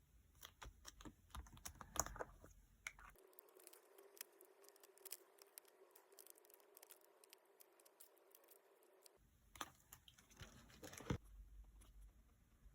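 Faint, quick clicks, taps and light rustles of paper and stickers being handled at a desk. For a stretch in the middle the low room noise drops out and a faint steady hum sits under the ticks.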